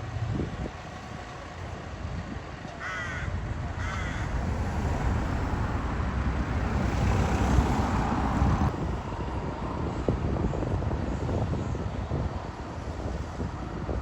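Two harsh crow caws, about three and four seconds in, over a steady low rumble of vehicle engines. A louder rushing swell of a passing vehicle comes a little past the middle.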